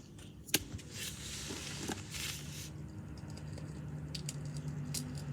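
Rustling and a few sharp clicks of things being handled, over a faint steady low hum.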